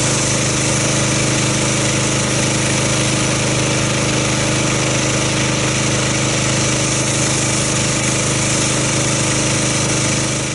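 Gas pressure washer running steadily with its water jet spraying, a constant engine tone under a loud hiss, used to rinse foam soap off a car; it cuts off at the very end.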